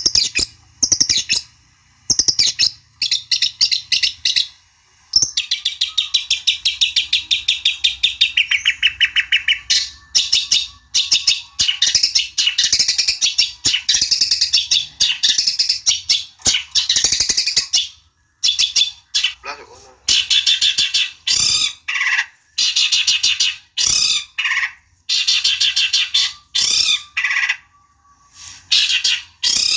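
Long-tailed shrike (cendet) singing a fast, scratchy chattering song in rapid bursts, with a longer unbroken run of buzzy notes about five seconds in. It is an agitated song of the kind played as a lure to provoke a rival cendet into answering.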